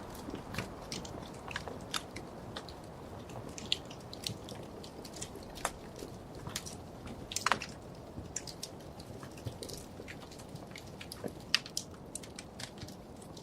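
Wood fire crackling in a fireplace: irregular sharp pops and snaps over a steady low rumble of burning, with a couple of louder pops about halfway through and near the end.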